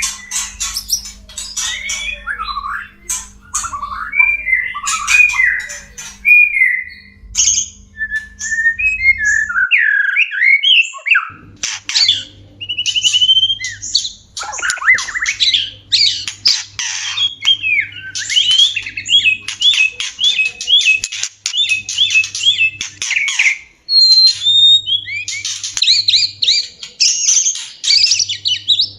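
White-rumped shamas (murai batu) calling and singing in fast, varied whistled phrases and harsh chattering runs, the sounds of a pair in courtship. A faint low hum runs underneath.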